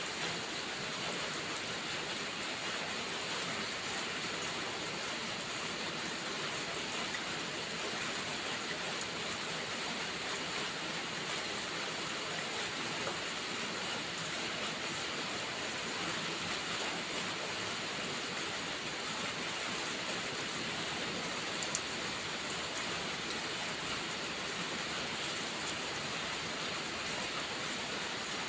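Steady rain falling, an even hiss of rainfall on surfaces, with a few faint ticks of drops or crackles scattered through it.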